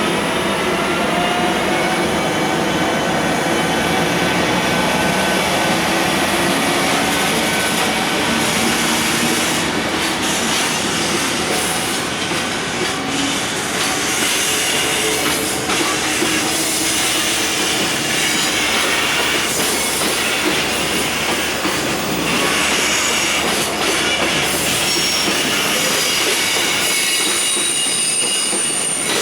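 Freight train pulling out: the EF510 electric locomotive's traction motors whine in rising tones as it gathers speed, then a long line of container flatcars rolls past with wheels clacking over rail joints and some high wheel squeal near the end.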